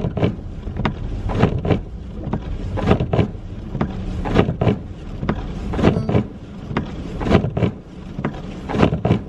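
Inside a car on the move: a steady engine and road rumble, with a pair of sharp knocks repeating about every one and a half seconds.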